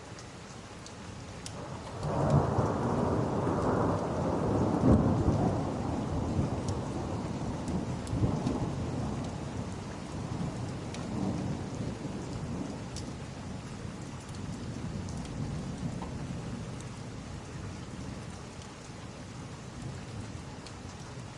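Thunder over steady rain: a rumble breaks in about two seconds in, swells for a few seconds, then rolls on and slowly fades while the rain keeps falling.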